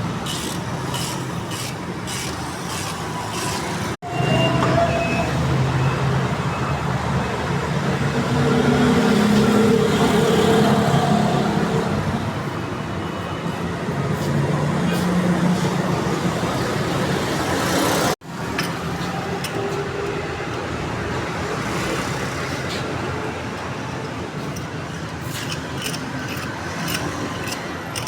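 Car engine running amid street traffic noise and indistinct voices, with clusters of sharp ticks near the start and near the end. The sound cuts off abruptly twice.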